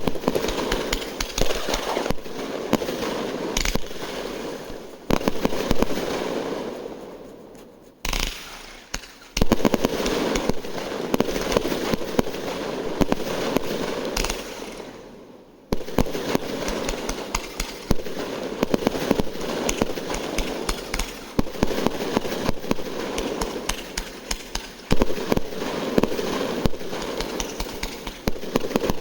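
New Year fireworks going off in rapid volleys: many sharp bangs with crackling between them. They die down briefly about eight and fifteen seconds in, then start again.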